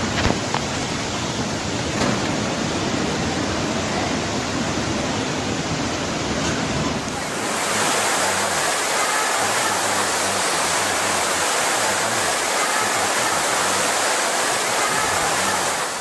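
Loud, steady rushing of water. About seven seconds in it changes abruptly, turning hissier with less low rumble.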